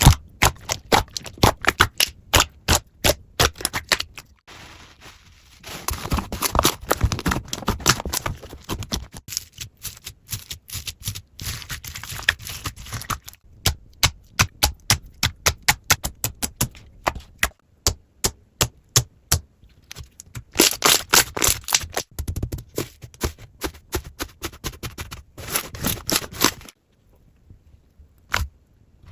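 Slime being squeezed and poked by hand: a fast run of sticky clicks and crackling pops, with short pauses, the longest near the end.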